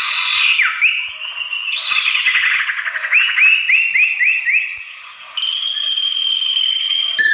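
Recorded song of the common iora (sirtu), played as a bird-luring call: harsh rasping chatter with falling notes, then a run of five quick repeated notes, then one long steady whistle in the last couple of seconds. A short click comes just before the end.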